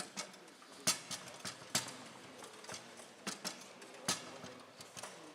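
Foosball table in play on a Bonzini table: the ball and the rod-mounted players knock against each other and the table in sharp, irregular clacks, several a second, the loudest about a second in, near two seconds and around three and four seconds in.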